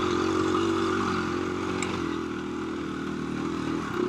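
KTM 350 EXC-F dirt bike's single-cylinder four-stroke engine running steadily at part throttle, easing off slightly about halfway through.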